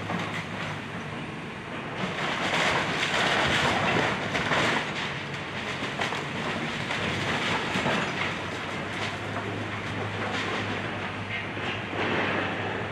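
Excavator's diesel engine running steadily under a crunching, clattering rush of demolition debris, loudest from about two to five seconds in and swelling again near the end.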